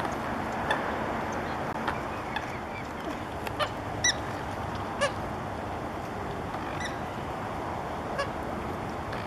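Waterbirds giving short honking calls, about seven scattered through, the loudest about four and five seconds in, over a steady rush of wind noise.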